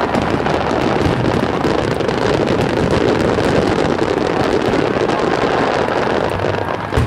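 Fireworks barrage from a wide starmine, many shells bursting so close together that they merge into one loud, steady rumble, with a sharper bang near the end.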